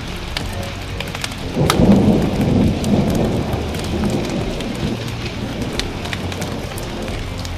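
Steady rain with a rumble of thunder that swells about a second and a half in and fades over the next two seconds. Scattered sharp crackles of a wood fire sound throughout.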